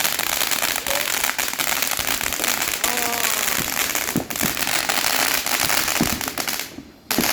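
Fireworks crackling with a dense run of rapid pops, then stopping abruptly about seven seconds in.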